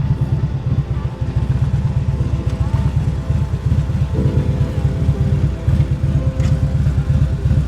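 Motorcycle engine running steadily at low speed, with a rapid low pulsing, with background music.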